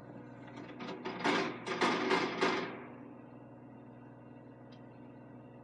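Backhoe engine running steadily while its bucket pounds the ground to compact soil, about six quick heavy strikes in the first three seconds, then the engine alone.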